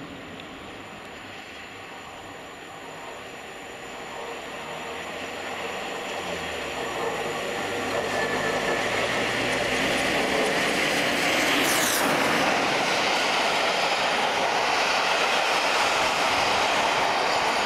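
Steam-hauled passenger train led by the A1 Pacific steam locomotive 60163 Tornado, approaching and passing at speed. The noise builds over about eight seconds, then stays loud and steady as the train goes by.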